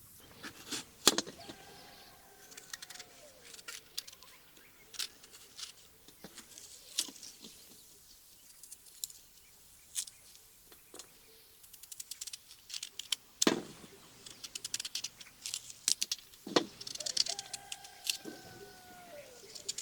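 Scattered clicks and knocks, like utensils or objects being handled, with two drawn-out animal calls that fall in pitch at the end, one about a second and a half in and another near the end.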